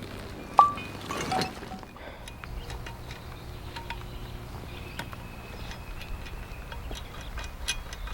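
A sharp metallic clink with a brief ring about half a second in, then faint rustling and scattered small clicks.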